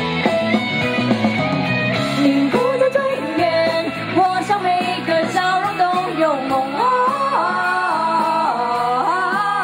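Cantopop song with guitar in the accompaniment and a woman singing the melody, clearest in the second half.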